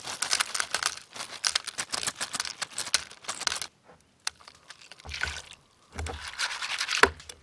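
Dehydrated fruit pieces handled in a crinkling plastic bag: a quick patter of small dry clicks and crackles for about three and a half seconds, then a few softer handling rustles and low bumps.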